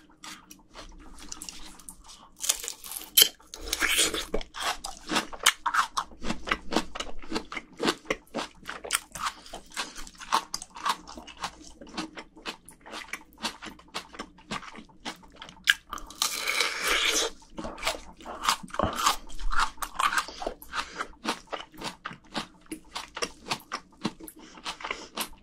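Close-miked chewing and crunching of plums chilled hard on dry ice, the frozen flesh crunching with each bite; louder bites come about three seconds in and again around sixteen seconds in.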